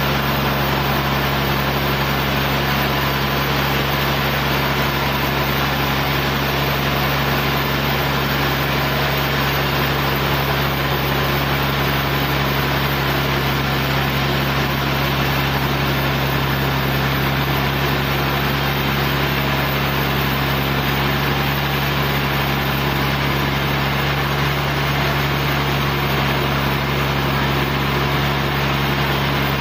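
Sawmill engine running steadily at a constant speed, an even hum that holds the same pitch throughout.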